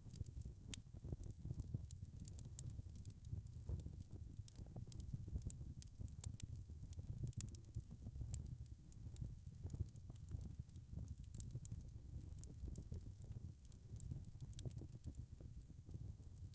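Wood fire crackling, with frequent irregular sharp snaps and pops over a low steady rumble.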